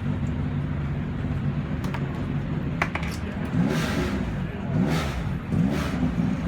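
Small race car's engine idling steadily, its revs rising and falling slightly a few times in the second half. Two short clicks come about two and three seconds in.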